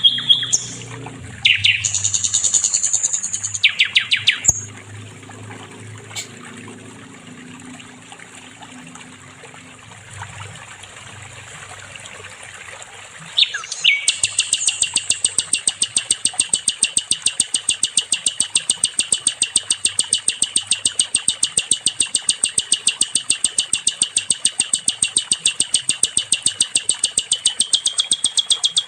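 Sikatan londo, a flycatcher, singing. A few varied calls and short trills come first, then a quieter stretch. About halfway through it starts a long, fast trill of evenly repeated high notes that keeps going.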